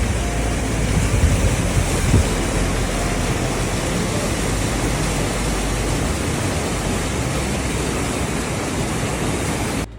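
Loud, steady rushing noise with a deep rumble underneath, cut off abruptly near the end.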